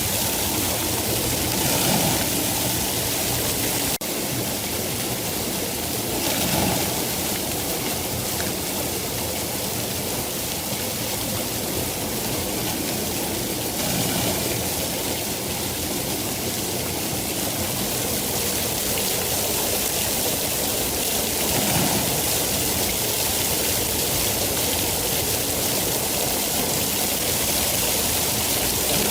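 Steady heavy rain, a dense constant hiss, with a few brief swells in level.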